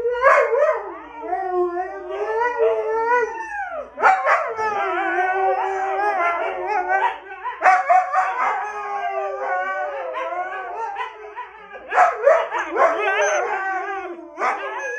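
Siberian husky 'back talk': long, wavering howl-like vocalizing whose pitch bends up and down. It comes in several drawn-out bouts, with short breaks about 4, 8 and 12 seconds in.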